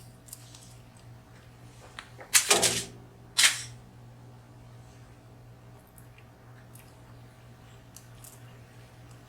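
A tiny lock pin dropped and clattering on a hard surface: a short rattling clatter about two seconds in, then one more sharp click about a second later, with faint light ticks of the pins being handled around them.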